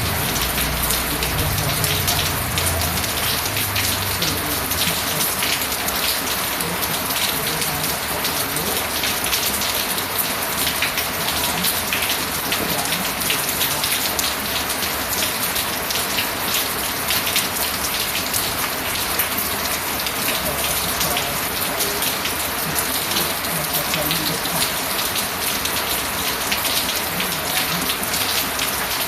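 Steady rain falling on a surface, a dense even patter of drops throughout. A low rumble dies away in the first few seconds.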